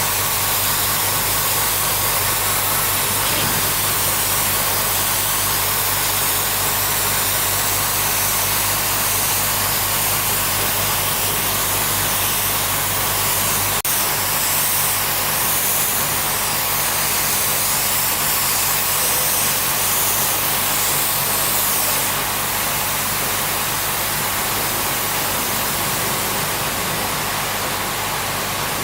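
A motor running steadily with a rhythmic low hum under a loud, even hiss; the hiss changes and drops slightly about two-thirds of the way through.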